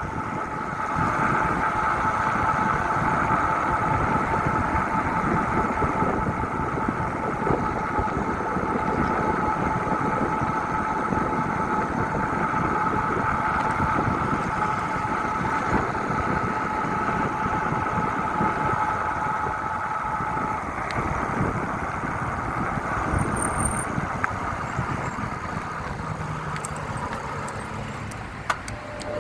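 Steady riding noise from a moving bike, with wind on the microphone and a steady two-tone hum that drops out about two-thirds of the way through. A few sharp clicks come near the end.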